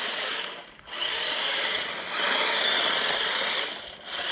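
Brushed 370 electric motor and gearing of a JJRC Q123 1/16-scale RC drift truck whining under throttle. The whine drops away briefly about half a second in, picks up again, and dips once more near the end.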